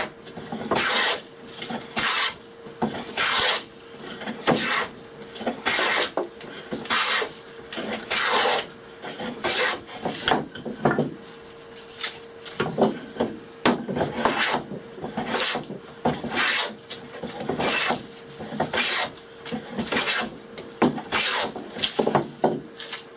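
A hand tool shaving a wooden stool-leg blank in repeated rasping strokes, a little over one a second with short pauses, taking the surface down to clean white wood. A faint steady hum runs underneath.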